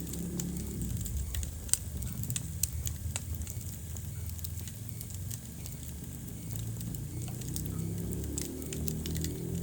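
Wood fire burning in a fireplace: a low steady rumble of flames with sharp crackles and pops scattered throughout, the loudest pop a little under two seconds in.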